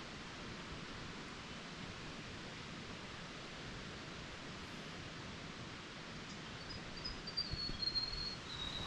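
Steady rushing outdoor background noise with no distinct events. About two-thirds of the way in, a thin high whistling tone starts and steps slightly lower, and a few soft footfalls on the trail begin near the end.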